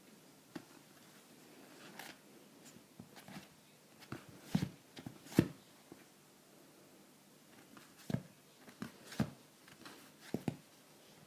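Scattered light taps and knocks, about a dozen at uneven intervals, the two loudest about a second apart near the middle.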